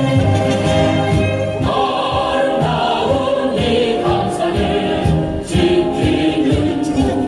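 A recorded song with band accompaniment and a steady beat; a group of voices comes in singing about a second and a half in.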